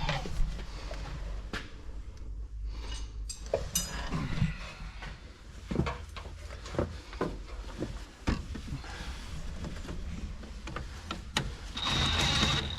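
Scattered metal clinks and knocks of hand tools and loose parts during a tractor transmission teardown, over a low steady hum. Near the end comes a louder steady whirring hiss of about a second.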